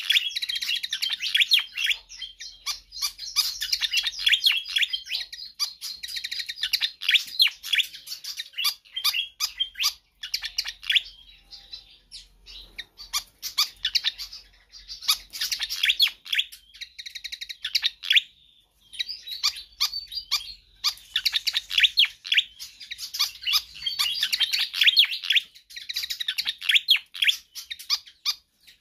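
A fantail (sikatan kipas) singing vigorously: rapid runs of sharp, high chirps in several long phrases with short pauses between them.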